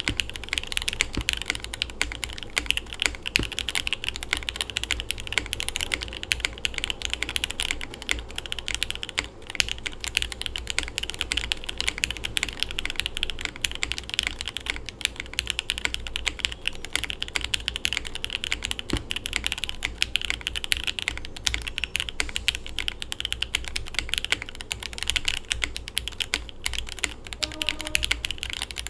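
Continuous fast typing on a mechanical keyboard: a Tofu65 with an acrylic tray-mount case, FR4 plate and no foam, fitted with lubed Jwick Red linear switches and GMK keycaps. The keystrokes come as a dense, even stream of clacks, many a second.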